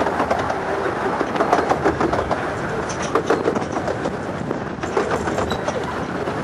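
A 15-inch gauge miniature railway train, heard from aboard a carriage, rolling along the track: a steady running rumble with irregular wheel clicks and clatter.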